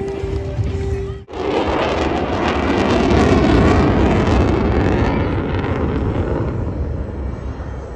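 Jet aircraft flying past: a loud rushing roar that begins abruptly a little over a second in, swells to its peak about three seconds in, then fades. Before it, a steady tone is cut off short.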